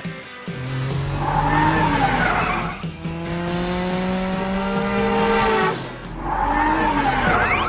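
Cartoon sound effects of a car engine revving, its pitch rising slowly, with tyres squealing twice: once about a second in and again near the end.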